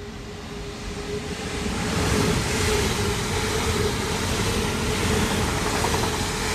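Passenger train running through the station at speed without stopping. Its noise builds over the first two seconds and then stays loud and steady as the carriages go by, with a steady hum underneath.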